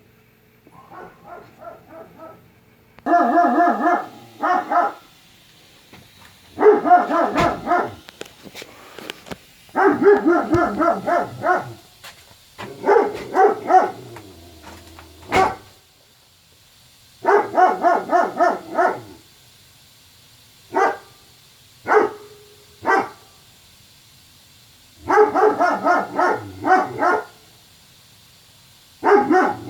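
A dog barking persistently in repeated bouts of rapid barks, each bout lasting one to two seconds with short pauses between. A few single barks come around the middle, and the opening bout is fainter.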